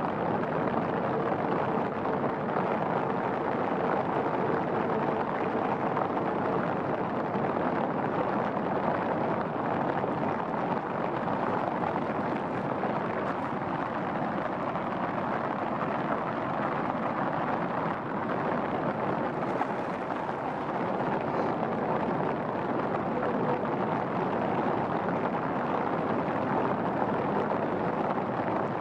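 Steady rain falling on a garden pond and the trees around it: an even, unbroken hiss that holds at the same level.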